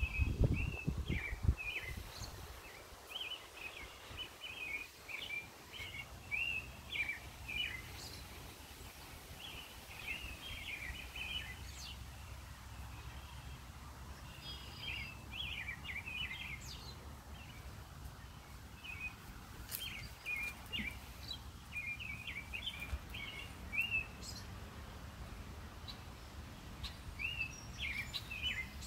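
Songbirds chirping in short bursts of quick high notes, over a low steady rumble, with a few low thumps in the first second and a half.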